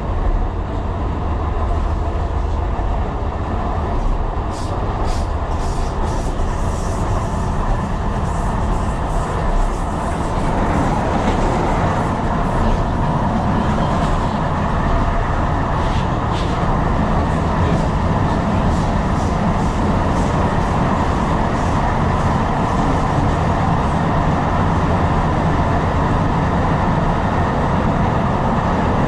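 Tyne & Wear Metrocar running along the track with a steady rumble, loud and continuous. From about 4 to 17 seconds in, a run of clicks and knocks from the wheels over the track sits on top of it.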